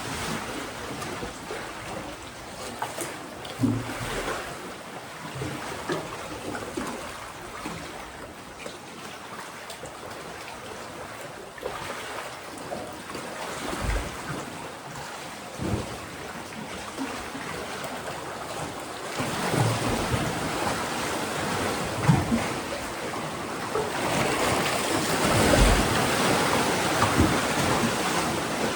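Mediterranean sea waves washing and surging on a rocky shore, a steady wash with a few dull low thumps, swelling louder in the last third.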